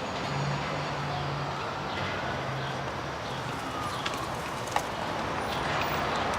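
Outdoor traffic ambience: a steady hiss with a low engine hum in the first few seconds, and two short clicks later on.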